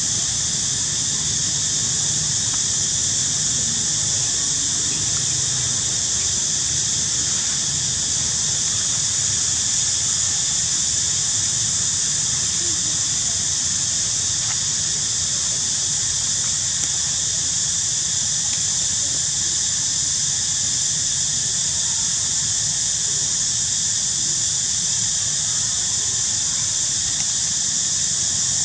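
A steady, high-pitched hiss that runs on evenly without a break, over a weaker low hum.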